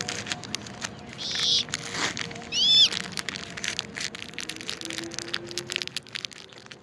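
Plastic candy wrapper crinkling and rustling in the hands, with a short high squeaky chirp about two and a half seconds in.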